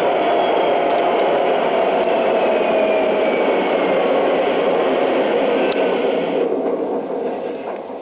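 O-scale model diesel train running on the layout: steady rolling and whirring from the wheels and motors mixed with the locomotives' onboard diesel engine sound, with a few light clicks. It fades away over the last couple of seconds.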